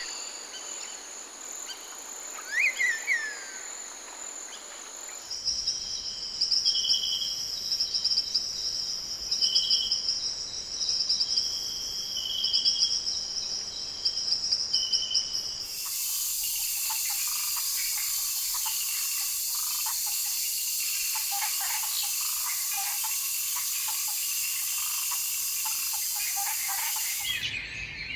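Rainforest birds and insects calling, in three abrupt sections. First come scattered bird calls. From about five seconds in there is a pulsing high trill with repeated short notes. From about sixteen seconds in a steady, dense, high insect chorus runs with bird calls over it, and it cuts off just before the end.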